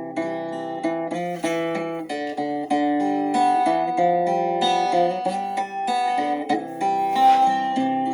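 Instrumental praise music: plucked acoustic guitar picking a slow melody, one note after another with the notes ringing on over each other.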